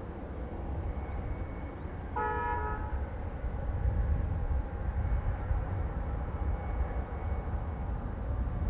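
Strong wind rumbling on the microphone while distant aircraft engine noise slowly builds. About two seconds in, a short horn toot sounds for about half a second.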